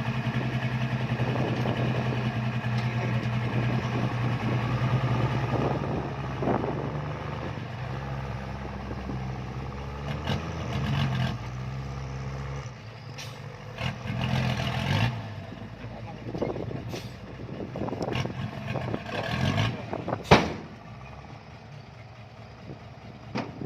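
Kubota L4708 tractor's diesel engine running steadily, its drone dropping away about halfway through. After that come scattered knocks and clatter, with one sharp, loud knock near the end.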